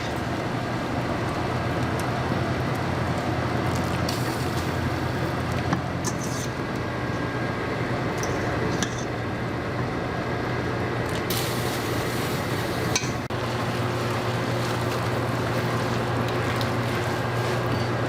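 A spoon stirring a thick, creamy sauce in a pot, with a few short clinks and scrapes against the pot over a steady low hum.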